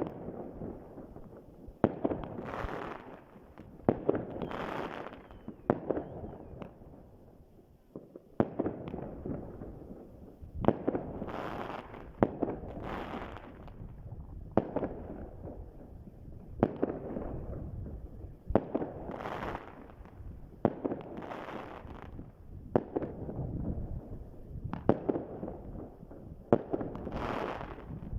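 Fireworks going off in steady succession: a sharp bang about every two seconds, each followed by a crackling, hissing tail as the burst spreads.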